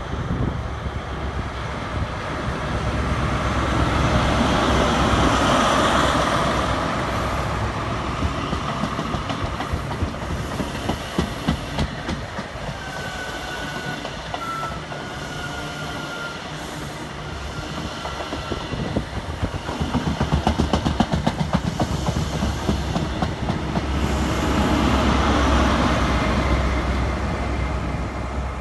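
A High Speed Train, with Class 43 diesel power cars at each end, passes slowly. The engine noise swells as the leading power car goes by and again as the rear one passes near the end, and the wheels click rhythmically over the rail joints as the coaches go by between them. A few faint high squeals come midway.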